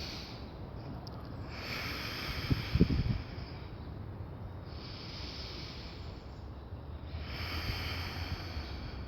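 Slow, audible breaths close to the microphone, four long breaths spaced a few seconds apart. There are a couple of low thumps about two and a half seconds in.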